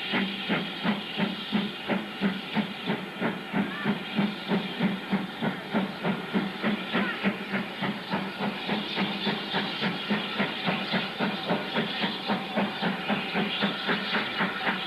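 Steam locomotive working under steam, its exhaust beating evenly at about three chuffs a second with a steady hiss of steam.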